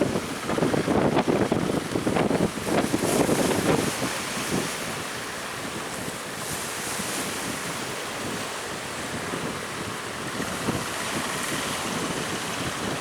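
Strong wind gusting against the microphone for the first few seconds, then settling into a steadier rush of wind and sea waves.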